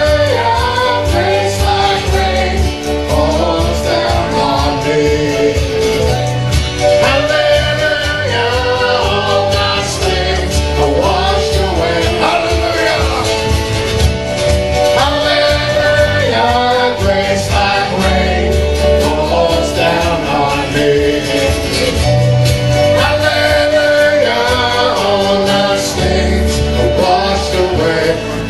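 Live band playing a gospel-style worship song, with singing over a steady bass.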